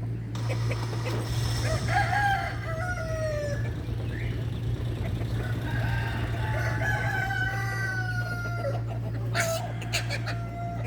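A rooster crowing twice, each crow a long call that falls in pitch, over a steady low hum, with a few sharp clicks near the end.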